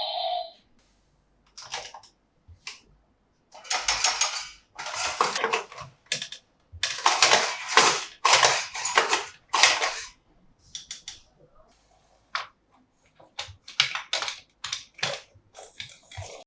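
Hard plastic toy parts being handled: irregular clicks and snaps, with longer rustling scrapes between about four and ten seconds in.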